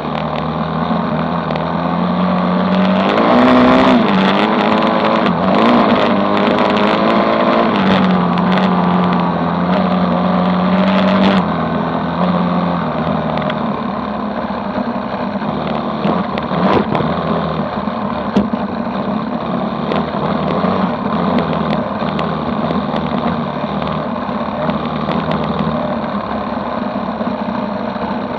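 Dirt bike engine running under way. It pulls harder with its pitch rising and falling from about three seconds in until about twelve seconds, then eases off to a steadier drone over a constant rush of noise.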